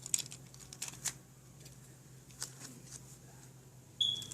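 Hard plastic clicking and rattling as a rubber grip is fitted onto a Beyblade grip launcher: a quick run of sharp clicks at the start, a few more scattered clicks, then a short high squeak about four seconds in.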